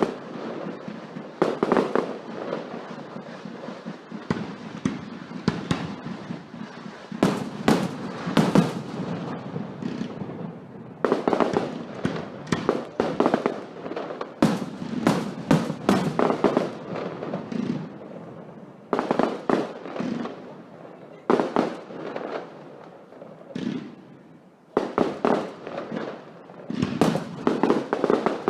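Fireworks going off in repeated volleys: clusters of sharp bangs and dense crackling, with short quieter lulls between the salvos.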